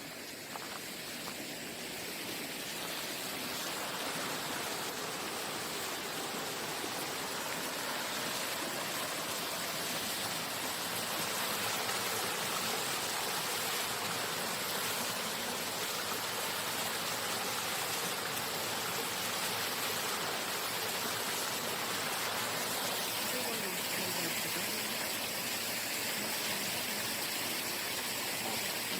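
Mountain valley stream, a steady rush of running water that grows louder over the first few seconds.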